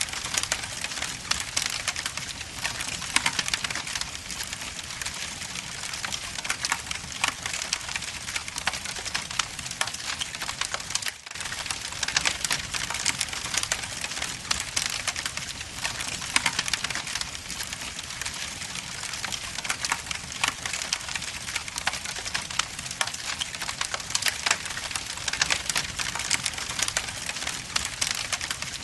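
Log fire burning in a fireplace, crackling with a steady stream of small pops and snaps, with a momentary drop-out about eleven seconds in.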